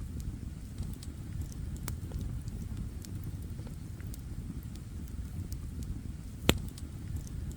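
Campfire burning with a steady low rumble and scattered small crackles, and one sharp, loud pop about six and a half seconds in.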